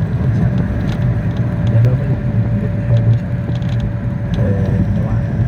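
Matatu minibus driving, its engine and road rumble heard from inside the cabin, with scattered light rattles and a steady whine for a few seconds mid-way.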